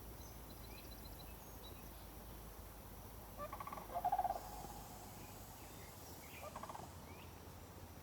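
A bird's rapid rattling call, a quick run of pulsed notes about three and a half seconds in, then a shorter one about three seconds later. Faint high chirps from small birds are also heard.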